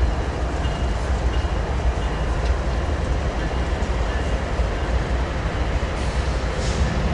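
Metrolink commuter train, led by an F125 diesel locomotive, passing close by: a steady, loud rumble of wheels on the rails, with faint thin squeals from the wheels now and then.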